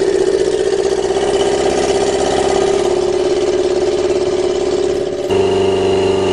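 Yamaha 650 motorcycle engine with a custom stainless steel exhaust idling steadily while still cold, with a bit of a tinny sound. Its note shifts abruptly about five seconds in.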